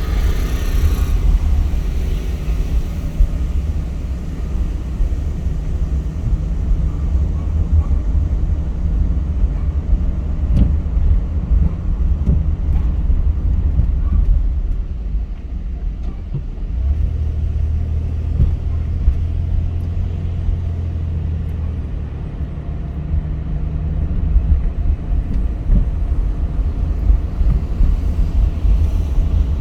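A car driving along a road: a steady low rumble of engine and tyres, with a few light clicks around the middle.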